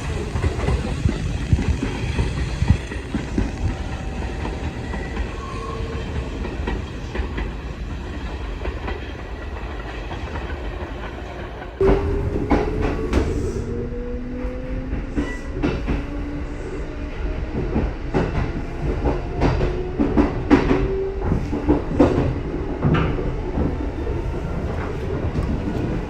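Kintetsu electric train (2610 series coupled with a 1253 series) running along the track, a steady low rumble with its wheels clacking over rail joints. About twelve seconds in the sound gets suddenly louder, and a motor whine rises slowly in pitch as the train picks up speed, with sharp irregular clacks.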